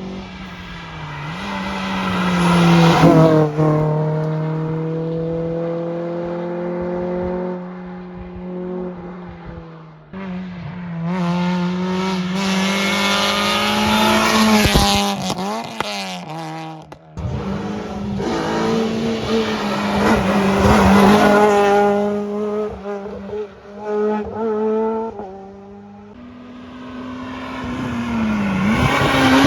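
Rally cars driven hard on a stage, a series of passes with the engines revving up and dropping through gear changes, and tyres squealing at times. The loudest moments come about a third of the way in, around the middle and near the end, with a few sudden breaks between passes.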